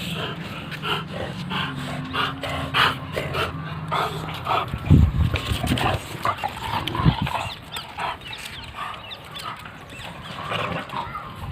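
British bulldog puppies making short dog sounds among clicks and scrapes, with two heavy thumps about five and seven seconds in. A steady low hum runs underneath until about four and a half seconds in.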